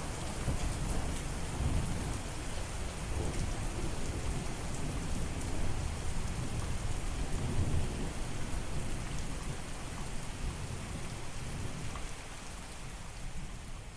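Steady heavy rain hissing, with a continuous low rolling rumble of thunder underneath.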